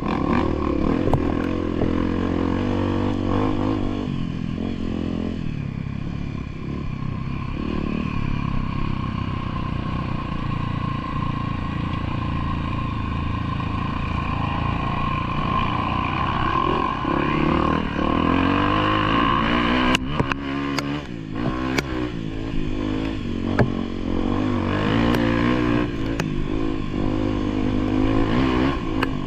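Trail motorcycle engine running, its pitch rising and falling with the throttle. Scattered clattering knocks come in over the second half.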